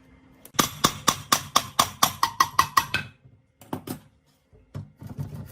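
A quick run of about ten sharp ringing taps, about four a second, then a few scattered lighter knocks near the end.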